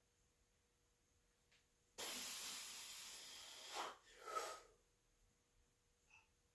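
A lifter breathing out hard during a set: one long hissing breath out starting about two seconds in, then a shorter one just after.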